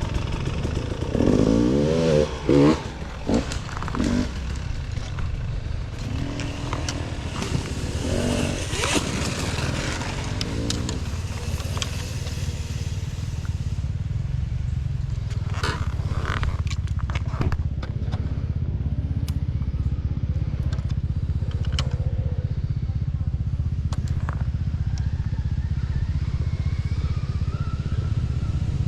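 Motorcycle engine running steadily during a trail ride, with scattered sharp clicks and knocks around the middle.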